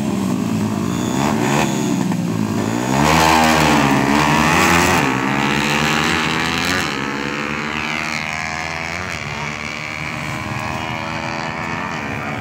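Small 125 cc motorcycle engines revving, the pitch swinging up and down repeatedly and loudest from about three to five seconds in, then running on a little quieter with slower rises and falls in pitch.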